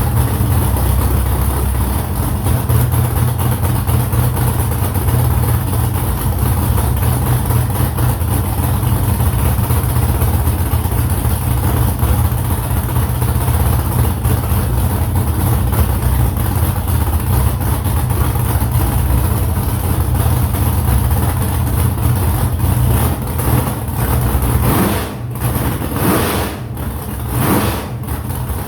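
Freshly built car engine running steadily. Its sound dips and changes unevenly in the last few seconds.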